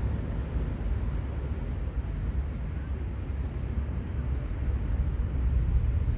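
Steady outdoor seaside ambience: a low, fluctuating rumble under a haze of noise, with one faint click about two and a half seconds in.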